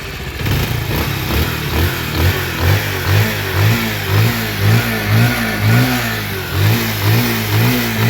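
Bajaj Pulsar 150's single-cylinder engine running with the throttle blipped, its note swelling and falling about twice a second. It runs without the knocking that a failed balancer (scissor gear) caused, the balancer having just been replaced.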